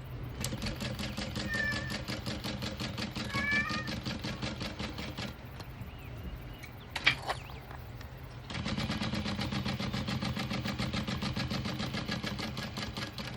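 Juki DU-1181N industrial walking-foot sewing machine stitching in two runs of about five seconds each, a rapid even chatter over a steady motor hum, with a single sharp clack between the runs. Two short animal calls sound during the first run.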